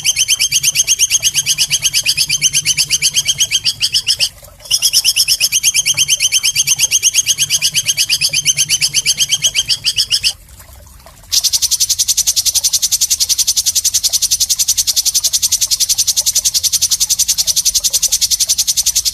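Songbird master recording of harsh 'nembak' trills: loud, rapid-fire strings of sharp repeated high notes. Two runs of about five seconds, each broken off by a short pause, are followed from about eleven seconds in by a longer, higher run.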